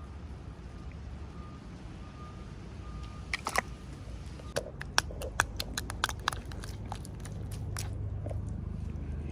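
A quick, irregular run of about fifteen sharp clicks and crackles, starting about a third of the way in and lasting some four seconds, over a low steady hum.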